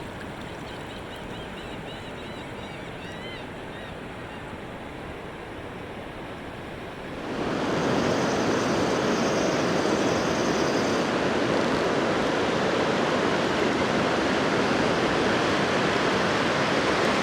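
Ocean surf breaking and washing up the beach, a steady rushing noise that becomes much louder about seven seconds in. A few faint high chirps sound in the first few seconds.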